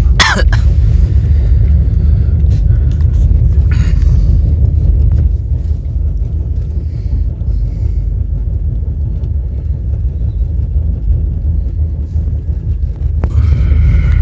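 Moving passenger train, a steady low rumble with a few faint clicks.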